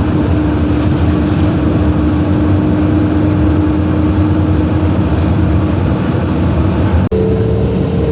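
Steady running noise of a moving vehicle, heavy and low, with a steady motor whine. After a brief break about seven seconds in, the whine comes back at a higher pitch.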